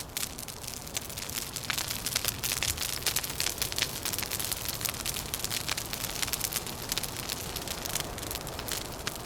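Wood fire crackling: many small, quick pops and snaps over a steady hissing rush.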